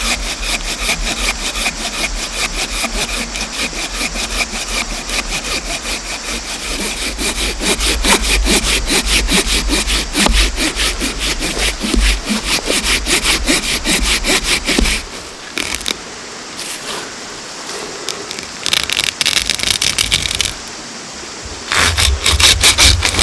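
Hand saw cutting through wood in fast, regular back-and-forth strokes. It stops about 15 seconds in, then saws again in two short bursts near the end.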